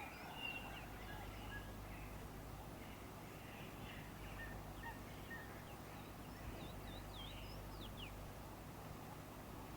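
Birds chirping and calling faintly, with short high falling whistle notes scattered throughout and a brief cluster of them a little past the middle, over a steady low hum.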